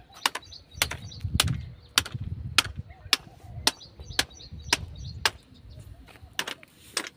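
Hammer blows striking rock to split it, sharp hits coming about twice a second in a steady rhythm.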